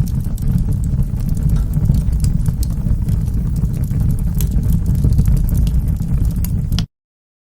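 Wood fire burning in a fireplace: a steady low rumble of flames with scattered sharp crackles and pops. Near the end the sound cuts out completely.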